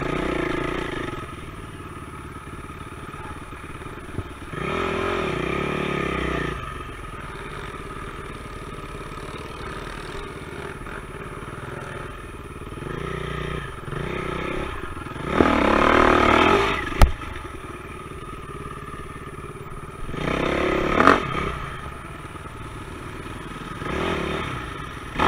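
Dirt bike engine running at low revs on a forest trail, opened up in four bursts of throttle, the longest near the middle. A sharp knock about seventeen seconds in.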